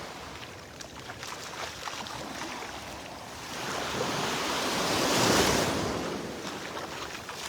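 Small Gulf of Mexico waves washing onto the beach, one wave swelling loudest about five seconds in and then falling away.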